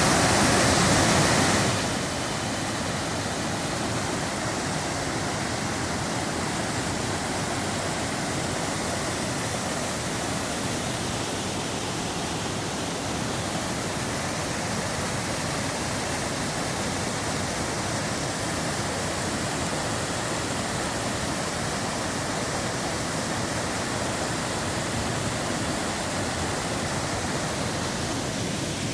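Waterfall rushing: a steady, even wash of falling water, a little louder for the first two seconds.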